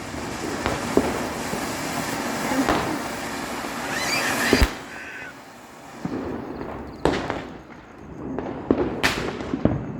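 Firecrackers going off: a steady hiss with crackling builds for about four and a half seconds and ends in one sharp bang. After it come a few separate sharp cracks.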